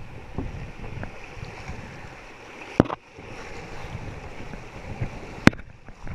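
Rushing river water and wind buffeting the microphone while canoeing, with two sharp knocks, one near the middle and a louder one near the end.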